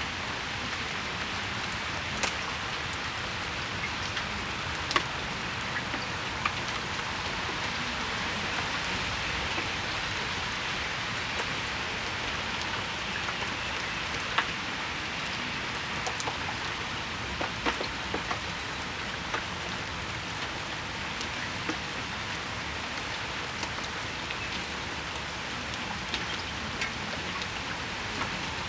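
Steady rain shower falling on surfaces, an even hiss broken by scattered sharp drips and drop impacts.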